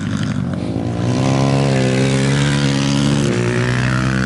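Racing motorcycle engine accelerating, its pitch climbing steadily, then dropping suddenly about three seconds in and climbing again.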